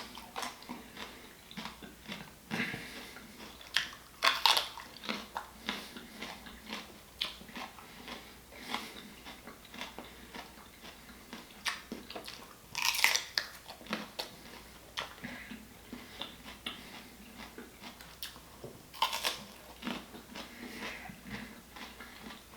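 A person chewing and biting seafood-boil food close to the microphone: irregular mouth clicks and wet chewing, with louder bites about 4 s, 13 s and 19 s in.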